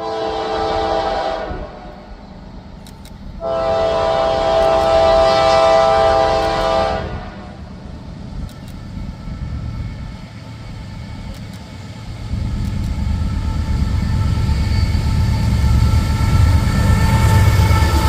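Diesel freight locomotive's horn sounding a chord: a short blast, then a long one of about three and a half seconds. Afterwards the low rumble of the approaching locomotives and train builds up.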